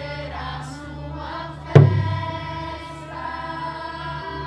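A group of voices singing together, with a deep drum struck once about two seconds in and again at the very end, each beat ringing down.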